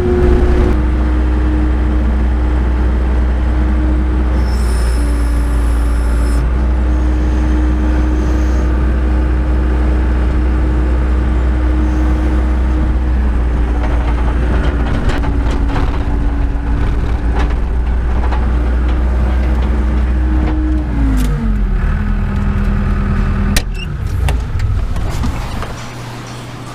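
Skid steer engine running steadily at working revs while it moves a vehicle. About 21 seconds in the revs fall away to idle, a sharp click follows, and the engine stops near the end.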